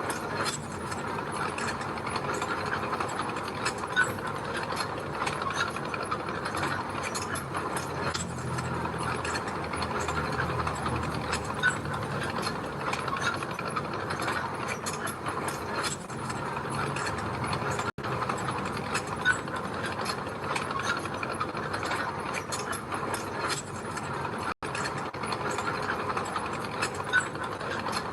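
Mini bulldozer working gravel: continuous rattling and clanking of its steel tracks over a low diesel engine running. The sound cuts out for an instant twice, about two-thirds of the way through and again near the end.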